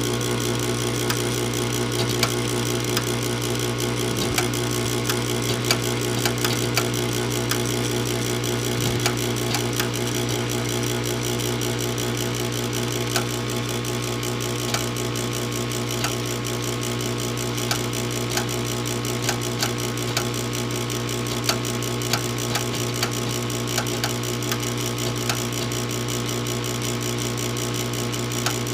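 A furnace that won't start, with a motor humming steadily and sharp irregular clicks over it.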